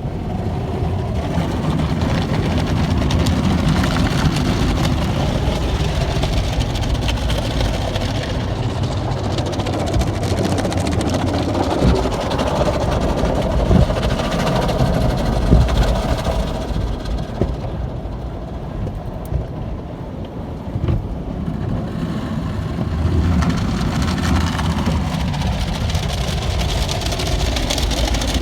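Automatic tunnel car wash equipment working over the car, heard from inside the cabin: a loud, continuous rush and rumble of water spray and machinery that eases for a few seconds past the middle and then builds again.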